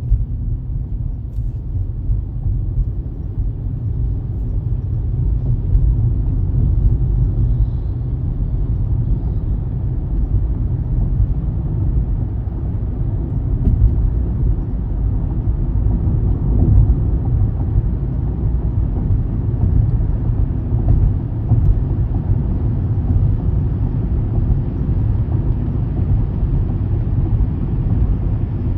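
Car driving, a steady low rumble of road and engine noise with no sudden events.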